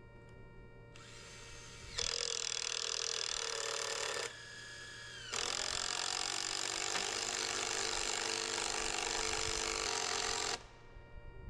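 Power drill running under load in two long runs, the first about two seconds and the second about five, winding down in pitch between them.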